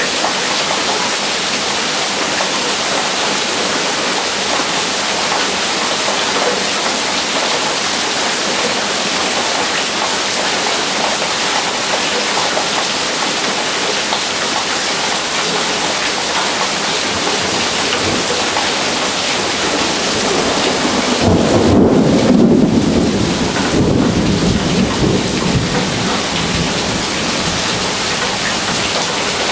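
Heavy rain pouring down in a steady hiss. About two-thirds of the way through, a rumble of thunder builds, peaks and rolls away over several seconds.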